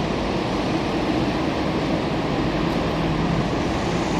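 Semboku Rapid Railway 7000 series electric train arriving at a station platform: a steady running noise from its wheels and running gear as it rolls in.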